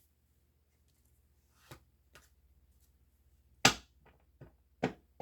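Tarot cards being handled on a table: a series of short, sharp taps and snaps, the loudest about three and a half seconds in, with several quicker ones near the end.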